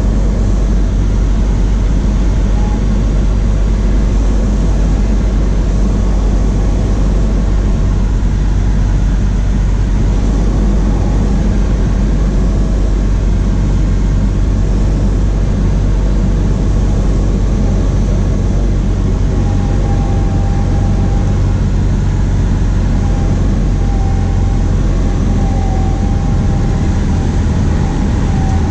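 Cessna 152's four-cylinder piston engine and propeller droning steadily in flight, heard from inside the cabin. A faint thin tone comes and goes in the second half.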